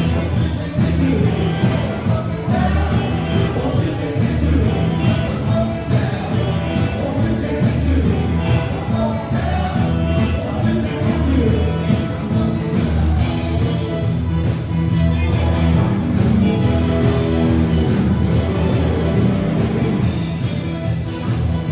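Rock band playing a song with a singer, over a steady drum beat.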